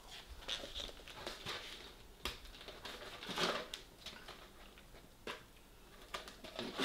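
Takeaway food packaging being handled and opened: scattered rustles, crinkles and light clicks, with a longer rustle midway.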